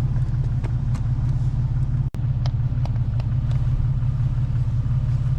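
Recovery truck's engine and drivetrain rumbling steadily as it drives, heard from inside the cab, with scattered sharp clicks. The sound cuts out for an instant about two seconds in.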